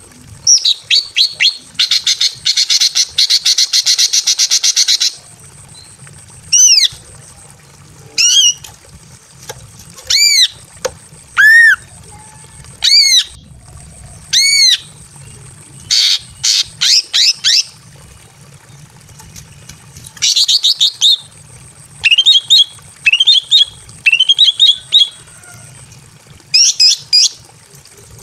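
Female green leafbird (cucak ijo) calling loudly in breeding condition. It gives a harsh, rapid chattering trill for a few seconds, then a run of separate clear arched whistles, then quick bursts of rising notes.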